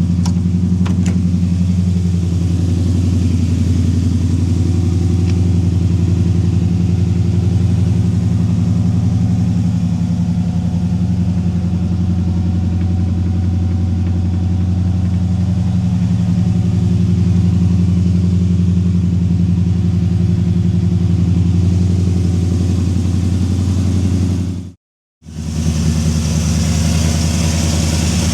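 Jasper 383 stroker V8 of a 1968 Chevrolet C10 idling steadily. Near the end it breaks off in a brief silence, then carries on idling with more hiss.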